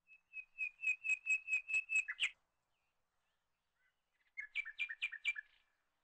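A bird singing: a run of about ten quick, evenly repeated high chirps that ends in a short flourish, then a second, shorter burst of chirps about four and a half seconds in.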